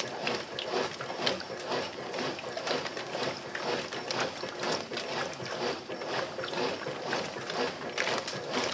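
Brastemp BWL07A top-loading washing machine agitating with its lid off, water and heavy suds sloshing and splashing irregularly around the load.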